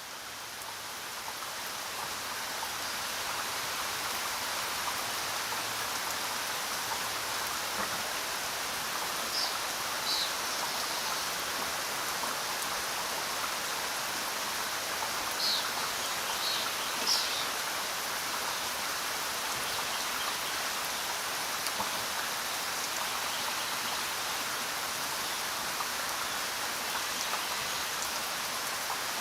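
Steady rain falling, a dense even hiss that fades in over the first few seconds and then holds level. A few short, high sounds stand out briefly around the middle.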